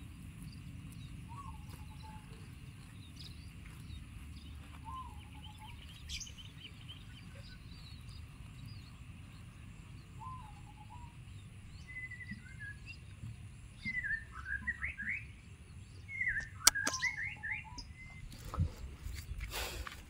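Birds calling in the open: a short call repeated every few seconds, joined about two-thirds of the way in by a quick run of rising chirps. There is one sharp click near the end, over a low steady rumble.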